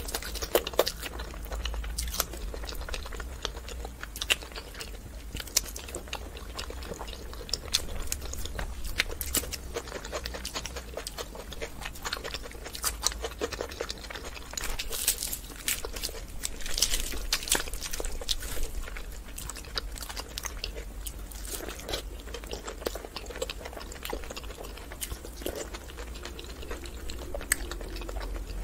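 Close-miked eating sounds: chewing and biting on luchi and curry, with many short sharp mouth clicks and smacks, over a steady low hum.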